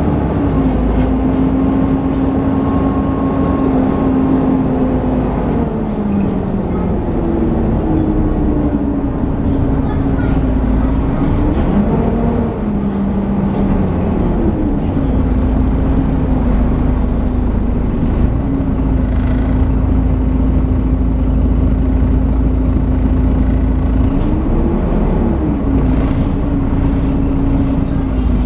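Volvo B7TL bus's 7-litre Volvo D7C engine running under way with its characteristic "hoover" whine over a low rumble. The whine's pitch drops and recovers a couple of times, then briefly rises and falls near the end.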